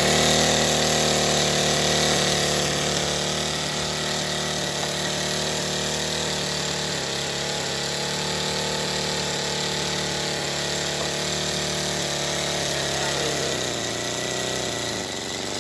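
A small model engine running steadily, its pitch wavering slightly.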